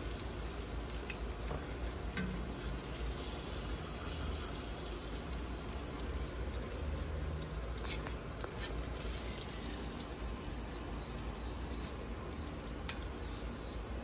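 Floured shark fillets frying in hot oil in a cast iron skillet: a steady sizzle, with a few faint clicks.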